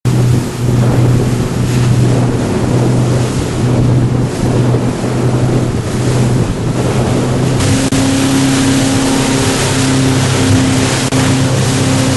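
Motorboat engine running steadily with a low drone, under the hiss of wind and water rushing past. About eight seconds in the hiss grows louder and a second, higher engine tone joins.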